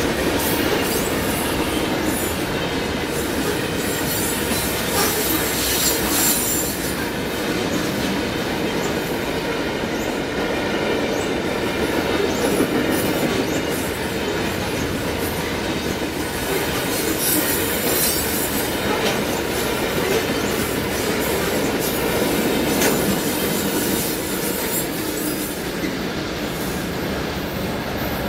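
CSX manifest freight train's cars rolling past at a grade crossing: a steady heavy rumble and rattle of steel wheels on rail, with high wheel squeals rising several times. The noise eases a little near the end as the last cars go by.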